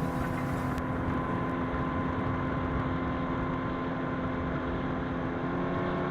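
Motorboat engine running steadily at an even drone, with the rush of wind and water around the boat.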